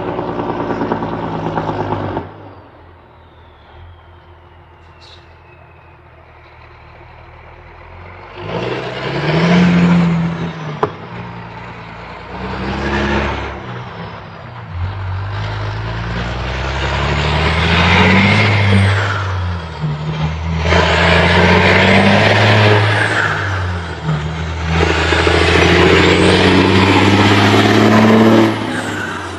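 International tractor-unit truck's diesel engine heard through its stock exhaust. It gives a loud rev at the start, then idles more quietly, then revs in short bursts and climbs in pitch through three long pulls, each dropping back before the next.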